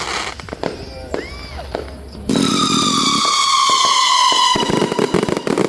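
Aerial fireworks: scattered pops, then a loud whistling shell whose pitch falls slowly for about two seconds, followed by a dense crackle of small bursts near the end.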